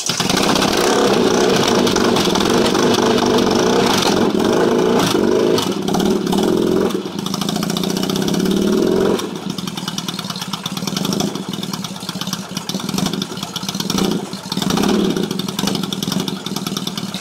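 Yamaha XS650 air-cooled parallel-twin engine running from a cold start on rebuilt carburettors with open intakes and no pod filters. It runs at raised revs for the first nine seconds or so. Then it drops to a lower, uneven idle with a few brief swells in revs.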